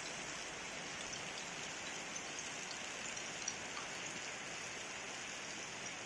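Heavy rain falling steadily, with scattered individual drops ticking on nearby surfaces and one slightly louder tap about three and a half seconds in.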